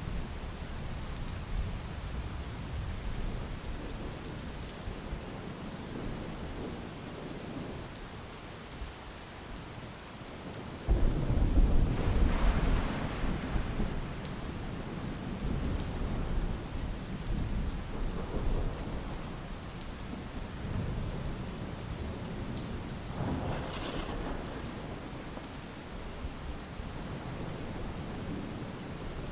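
Steady rain falling, with rolling thunder. A loud, sudden clap of thunder comes about a third of the way through and rumbles on for several seconds, then fades back to the rain.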